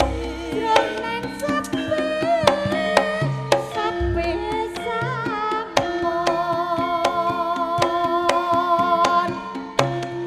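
Javanese campursari band music: hand-drum strokes and deep bass thumps under a wavering melody line and held tones, played over a PA sound system.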